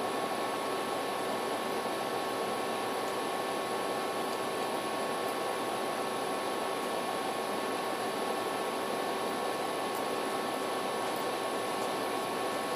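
Steady, unchanging background hiss and hum with a few faint constant tones, like a fan or electrical noise; nothing else happens.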